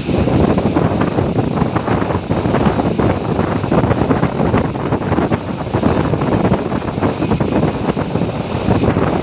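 Diesel suburban train running with its throttle on the fifth notch, a dense rumbling rush heavily buffeted by wind on the microphone.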